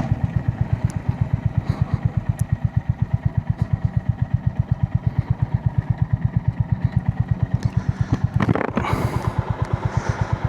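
Honda GB350S single-cylinder engine idling at a standstill, a rapid, even thumping beat. About eight and a half seconds in, a louder rushing noise rises over it.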